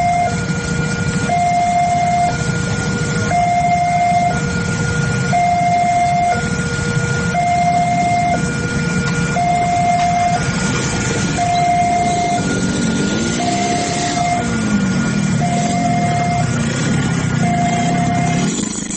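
Railway level-crossing warning alarm sounding a two-tone electronic signal that alternates about once a second, while a passing train's heavy rumble fills the low end. The train noise falls away near the end while the alarm continues.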